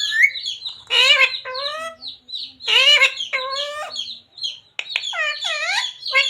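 Green parrot calling in a run of high-pitched, warbling, speech-like phrases, about five in a row with short pauses between them.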